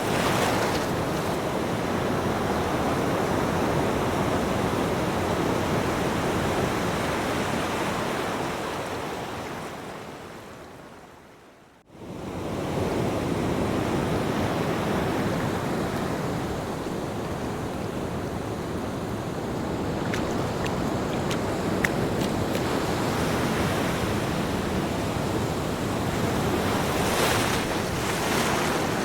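Ocean surf: a steady wash of breaking waves that fades away about twelve seconds in, then cuts back in suddenly and carries on.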